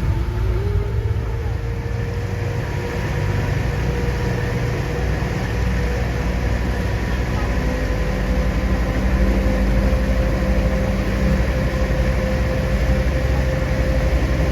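Tour boat's engine running at a steady cruising speed: a constant low drone with a thin whine above it that creeps slightly higher in pitch.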